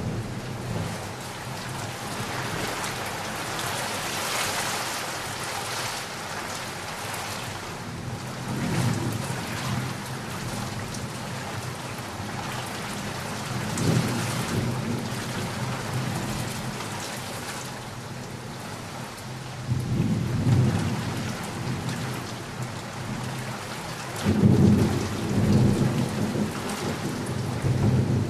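Steady rain hissing down, with thunder rolling in low rumbles four times, the loudest and longest near the end.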